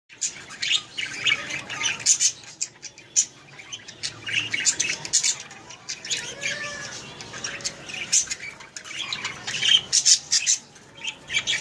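Budgerigars in a cage chattering with many overlapping quick chirps and squawks.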